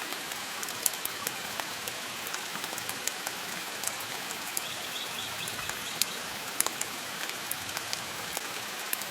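Steady rain hiss with irregular sharp crackles and pops from a wood fire in a fireplace.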